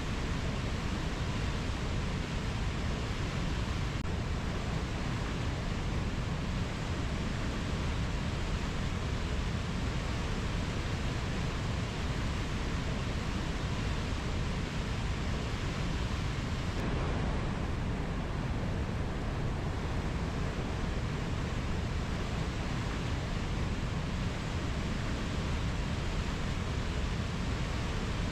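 Rainforest ambience: a steady, even rushing noise, deepest at the low end, with no distinct bird or insect calls. The texture shifts slightly about seventeen seconds in.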